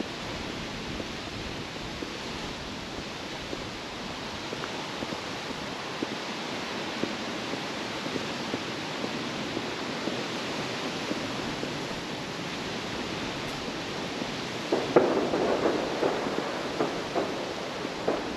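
Steady outdoor rush with a few faint scattered pops, then a run of crackling pops starting about three-quarters of the way in, from fireworks going off at a distance.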